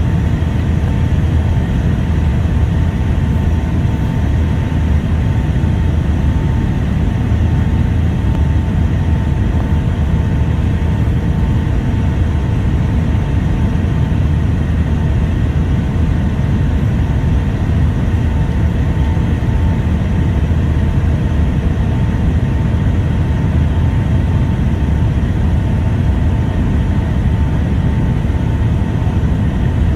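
Steady cabin noise of a Boeing 757-200 airliner in flight on its approach: a loud, even rumble of engines and airflow with a faint steady whine.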